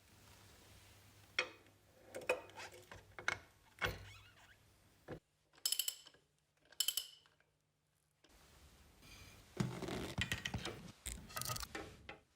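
Workshop handling sounds: metal parts and hand tools knocking, clicking and scraping, with two brief ringing metal clinks about a second apart midway and a busier patch of rattling near the end.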